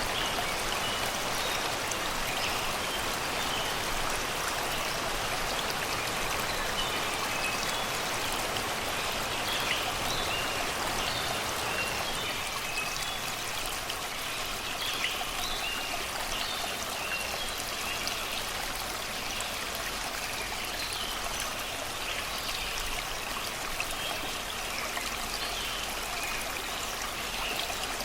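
Shallow river water rushing and babbling steadily over rocks and stones, with forest birds singing in short chirps scattered throughout.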